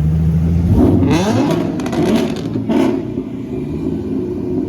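Car engine revving hard about a second in, its pitch rising quickly, with a quick run of sharp crackles, then settling back to a steady run.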